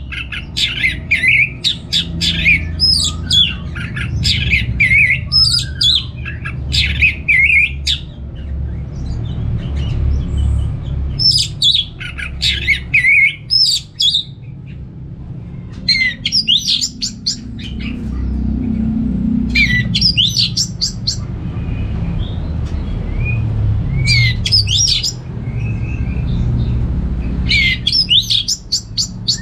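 Orange-headed thrush (anis merah) singing: rapid, varied phrases of sliding high whistled notes. The song runs almost continuously for the first several seconds, then comes in shorter bursts a few seconds apart, over a steady low hum.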